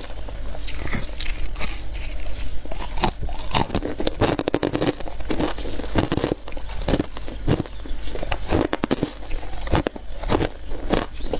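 Close-up crunching of frozen ice or freezer frost being bitten and chewed: a rapid, irregular series of crisp crunches, thickening into a dense crackling run about four seconds in.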